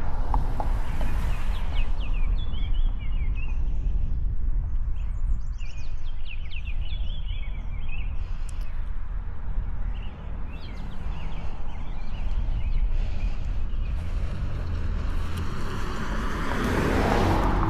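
Outdoor roadside ambience: a steady low wind rumble on the microphone, with birds chirping in several quick series during the first half. Near the end a car comes up and passes on the road, its tyre and engine noise swelling.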